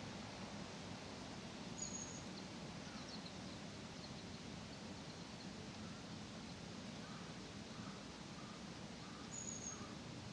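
Birds calling faintly over a steady background of outdoor noise: a short high note about two seconds in and again near the end, with soft chirps between.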